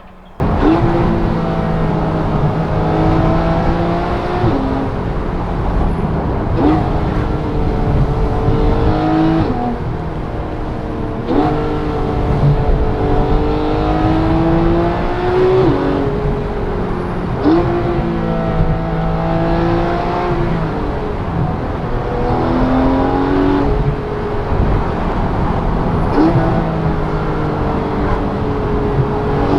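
Porsche GT3 RS's 4.0-litre flat-six accelerating hard through the gears, heard from inside the car: the engine note climbs in pitch, then drops sharply at each upshift, about a dozen times, with a brief sharp crack at each shift.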